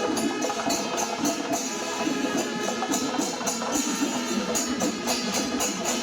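Kerala temple festival percussion ensemble playing: drums with small hand cymbals clashing in a steady, fast rhythm.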